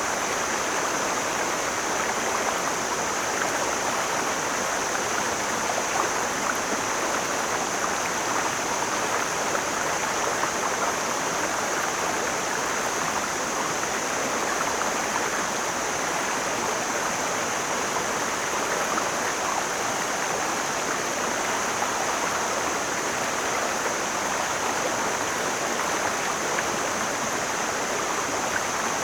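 Mountain stream flowing steadily, an even rushing of water with a constant high hiss above it.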